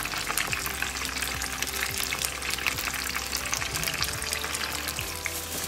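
Food frying in a hot pan: a steady crackling sizzle.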